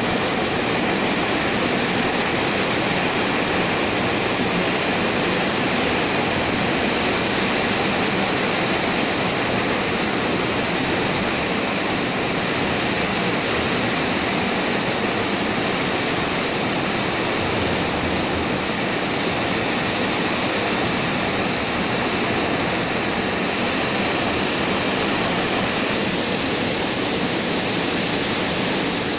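Steady rain falling, a continuous even hiss that holds at one level throughout.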